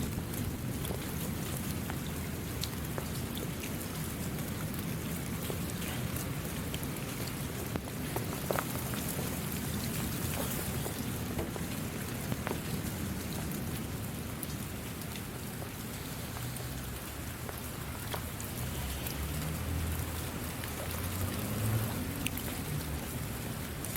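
Steady rain falling, with individual drops ticking sharply over a continuous hiss and a low rumble underneath.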